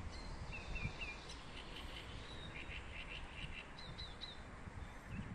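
Small birds chirping: several short series of high chirps over a steady low rumble of outdoor background noise.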